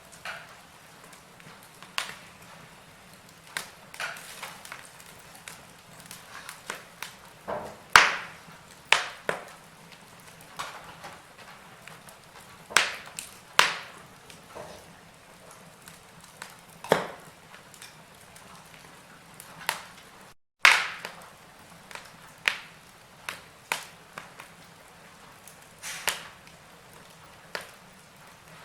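Wood fire in a fireplace crackling: irregular sharp pops, some loud, every second or so over a soft steady hiss. The sound cuts out for a split second about two-thirds of the way through.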